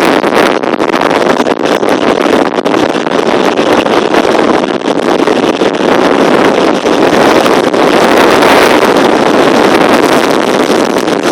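Strong wind blowing and buffeting over the microphone: a loud, continuous rushing noise that flutters and gusts throughout.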